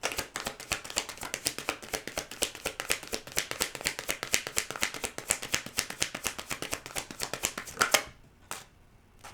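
A deck of tarot cards being shuffled by hand: a fast, even run of card clicks for about eight seconds that stops suddenly, followed by a single tap.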